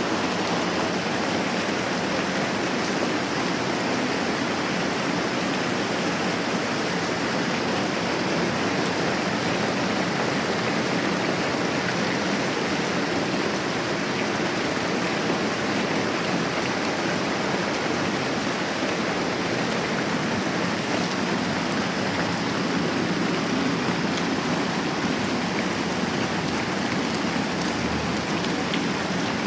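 Moderate rain falling steadily, a dense, even hiss with no let-up.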